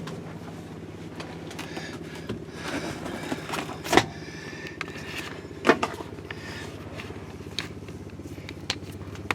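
A steady low mechanical hum, with a few sharp knocks and lighter clatter from handling. The loudest knocks come about four seconds and about six seconds in.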